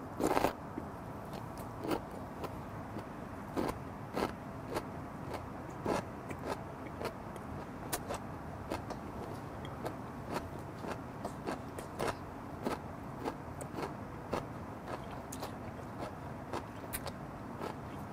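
A man chewing a mouthful of raw rabbitfish sashimi with chonggak (ponytail radish) kimchi, the radish crunching in irregular clicks about one or two a second. The loudest crunch comes as he bites in, just after the start.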